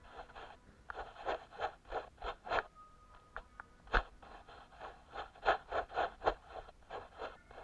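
Repeated short scratching strokes, two or three a second, like something rubbed or scraped across a surface, with one sharp tap about four seconds in.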